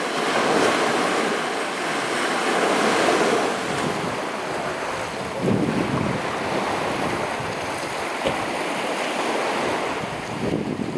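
Sea waves washing onto the shore, surging every few seconds, with wind buffeting the microphone.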